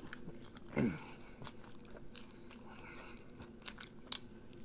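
Close-up eating sounds: a man chewing a bite of bagel bun soaked in runny egg yolk, with scattered wet mouth clicks and smacks. A brief hum from the eater comes about a second in.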